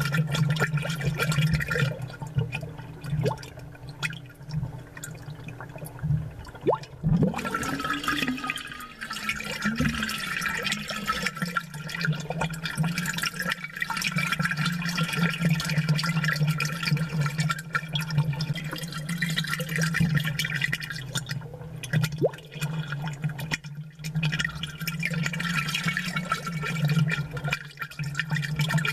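Aquarium water bubbling and gurgling from the air stones, with a steady low hum from the tank's pump running underneath.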